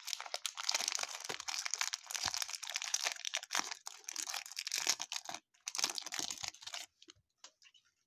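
Crinkling and tearing of a baseball card pack wrapper being torn open, continuous until about a second before the end, then a few faint ticks.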